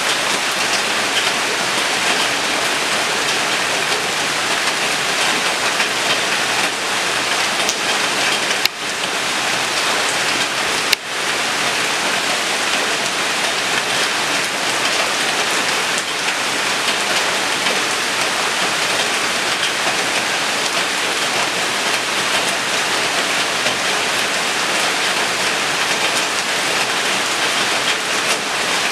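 Steady, dense rain falling on surfaces, an even hiss with no distinct drops. It briefly dips twice, about nine and eleven seconds in.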